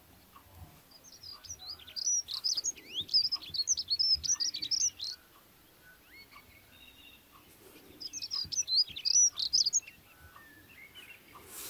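A small songbird singing rapid, high chirping phrases in two bouts: the first lasts about four seconds, and a second, shorter bout comes about eight seconds in.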